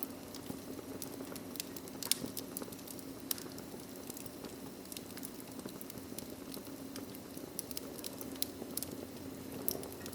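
Fireplace fire crackling: irregular sharp pops and snaps over a steady hiss, with a low hum underneath.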